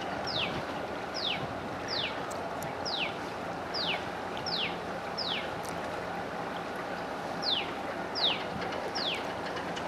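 A bird repeating a sharp downward-sliding whistle about every three-quarters of a second, with a pause of about two seconds midway, over the steady low hum and wash of a moving houseboat.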